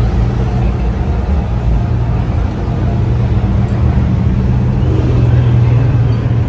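Car engine idling with a steady low drone.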